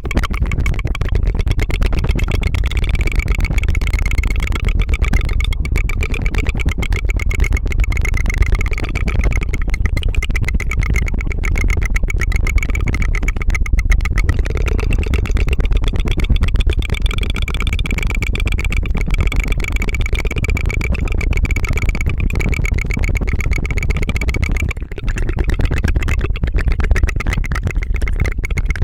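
Rapid tongue fluttering close to the microphone: a continuous fast buzzing trill of tiny clicks with a steady tone running through it, close to the sound of an idling engine. It dips briefly about 25 seconds in.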